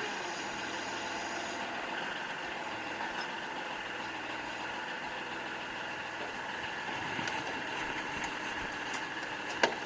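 Kubota L3560 tractor's diesel engine running steadily, with one sharp clank near the end.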